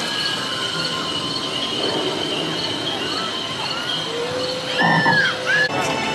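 Crickets chirring steadily in the night air. About five seconds in comes a brief, louder wavering glide, and the sound changes abruptly just before the end.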